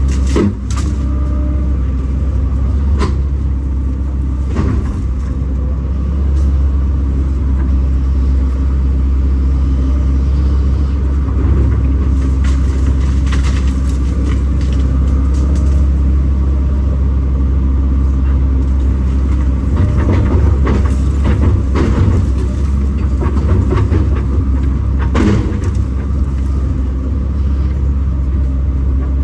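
Kobelco SK210 excavator's diesel engine running steadily under load, with scattered sharp cracks and knocks.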